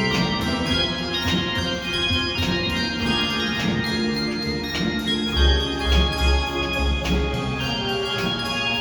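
Handbell choir playing a pop arrangement: struck bells ringing on in sustained chords, with deep bass notes coming in about halfway through.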